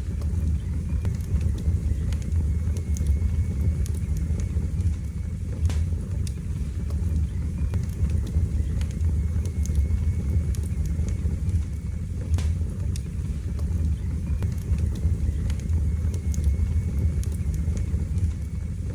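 Wood fire burning in a fireplace: a steady low rumble of flame with scattered sharp crackles and pops every few seconds.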